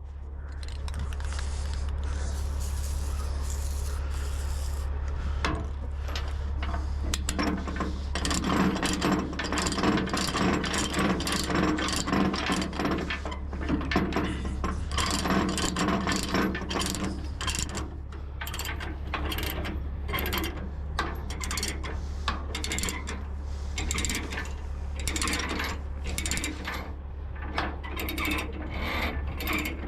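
Ratchet chain binder being cranked to tighten a load chain, its pawl clicking in runs of rapid clicks, over a steady low hum.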